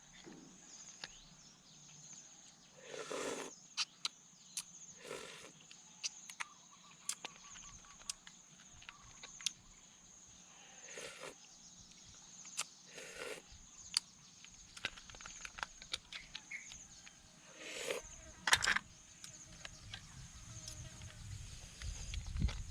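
Close-up eating sounds: a person chewing and smacking their lips, with many short sharp clicks and smacks and a few longer chewing noises, over a steady high-pitched whine.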